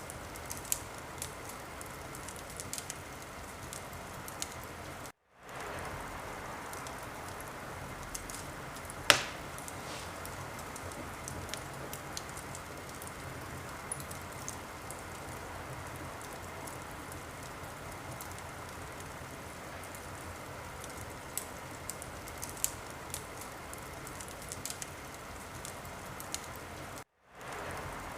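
Wood fire crackling in a fireplace: a steady hiss dotted with small crackles, and one loud pop about nine seconds in. The sound cuts out for a moment twice.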